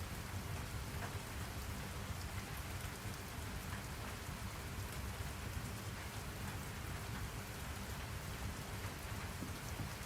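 Steady rain falling, with scattered drop ticks and a low rumble underneath.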